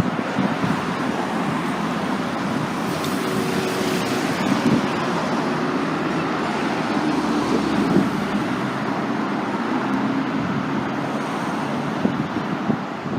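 Busy city-street traffic: car engines running and tyre noise from vehicles going by, steady throughout.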